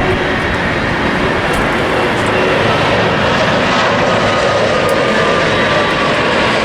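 Alaska Airlines jet airliner flying past on its approach to land, its engines giving a loud steady roar. A faint whine falls in pitch through the second half.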